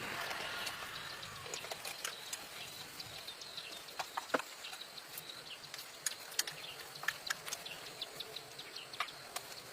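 Faint outdoor ambience: a steady high insect buzz with scattered light clicks and taps, a few sharper ones about four seconds in.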